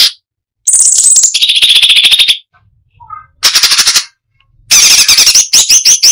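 Cucak cungkok (striated bulbul) singing in fast, dense rattling trills: three runs, the first about a second and a half long, the last breaking into quick rising whistled notes near the end.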